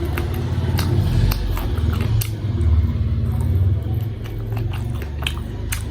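Close-miked eating: chewing and biting with many short sharp clicks over a steady low rumble.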